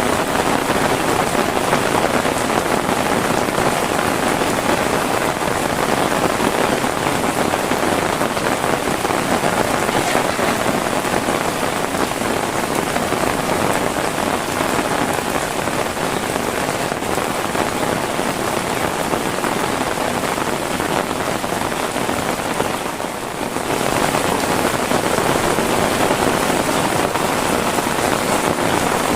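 Heavy rain falling steadily, a dense even hiss, with a brief drop in level about three quarters of the way through.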